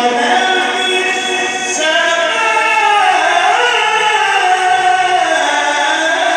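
A man reciting the Quran in the drawn-out melodic mujawwad style, holding long notes that slide slowly in pitch.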